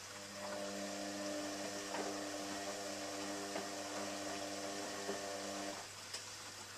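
Bosch Exxcel dishwasher's pump motor humming steadily during the water fill, starting at the outset and cutting off about six seconds in, over a constant low electrical hum.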